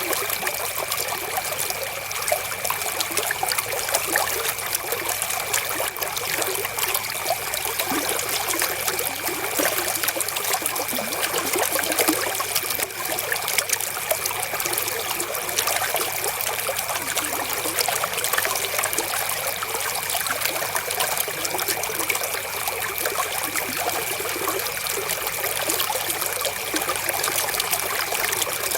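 Flowing river water: a steady, even trickling and rushing flow with no breaks, with a faint thin high tone held steadily underneath.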